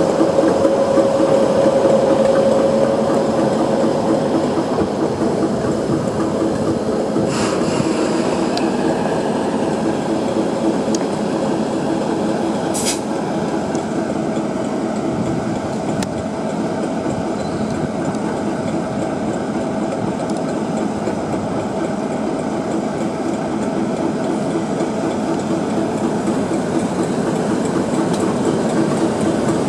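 A British Rail Class 60 diesel freight locomotive, with its eight-cylinder Mirrlees engine running, hauls a train of cement tank wagons past at low speed, wheels rumbling and clattering on the rails. Two sharp metallic clanks come about 7 and 13 seconds in.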